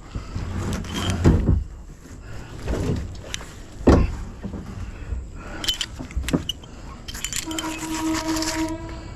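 Knocks and clanks of scrap metal pulled up on a fishing magnet being handled against the kayak, with a brief squealing tone near the end.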